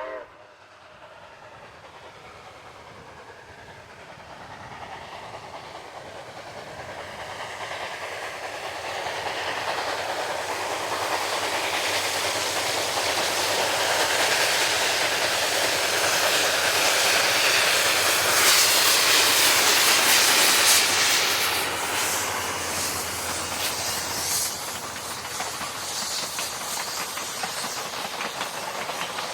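Steam locomotive No. 4960, a 1923 Baldwin 2-8-2, working hard up a short steep grade with a passenger train: steam hissing and running noise grow louder as it approaches, are loudest about two-thirds of the way through, then ease off as the cars clatter past on the rails.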